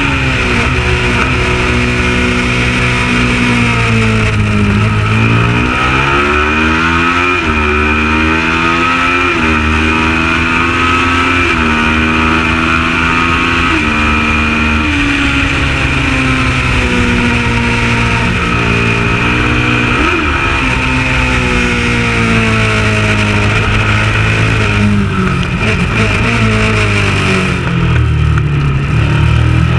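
Kawasaki ER650 parallel-twin race engine running hard. Its pitch repeatedly climbs under acceleration and steps down at each upshift, and drops lower under braking with downshifts near the end before climbing again.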